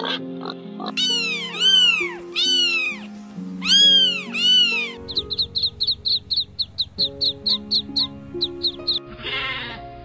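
Background music with farm animal calls laid over it. First come several high squeals that rise and fall, piglet squeals by the pictures. About five seconds in, a fast run of short high chirps starts, about four a second, and a sheep's bleat comes in near the end.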